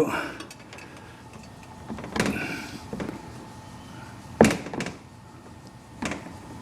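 A few knocks and clunks as the oil filter, capped with a Geno's cap-off tool, is worked out of its housing through the wheel well; the sharpest knock comes a little past halfway.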